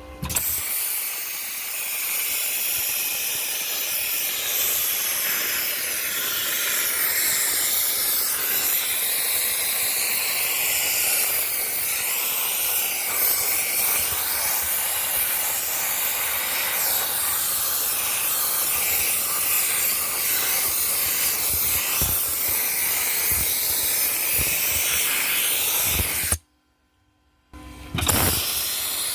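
Dry-ice blasting gun firing pellets on compressed air: a loud, steady hiss. It stops for about a second near the end, then starts again.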